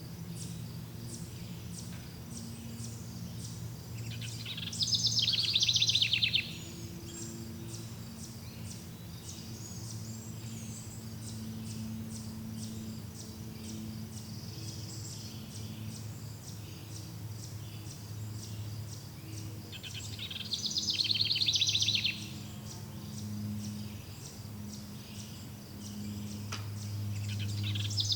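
Forest soundscape: a bird gives two loud, fast trilled songs about two seconds long, about five seconds in and again about twenty seconds in. Under them run a steady high chirring of insects such as crickets and a low steady hum.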